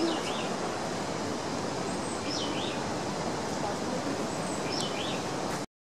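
A bird calling high and repeating the same short call three times, about two and a half seconds apart, over a steady rushing noise. The sound cuts off abruptly near the end.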